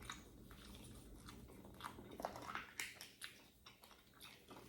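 Faint close-miked chewing of pizza: irregular small mouth clicks and smacks.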